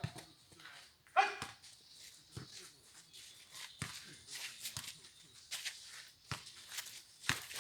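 Sharp thuds of a jokgu ball being kicked and bouncing, several spaced a second or more apart, with one short loud call about a second in.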